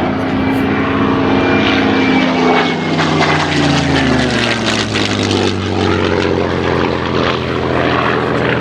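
Second World War fighter's V12 piston engine running hard as the plane passes low, its pitch falling as it goes by.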